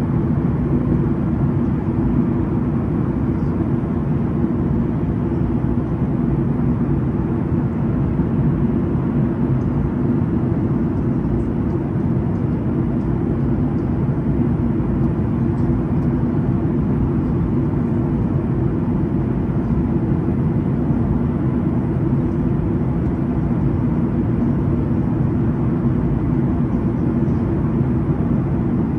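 Steady low engine and airflow noise of a passenger airplane in flight, heard from inside the cabin, even and unchanging throughout.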